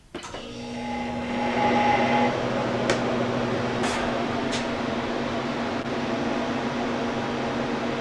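Harvest Right freeze dryer starting its freeze cycle: the refrigeration compressor and cooling fan kick on suddenly, then run as a steady mechanical hum, with a few faint ticks.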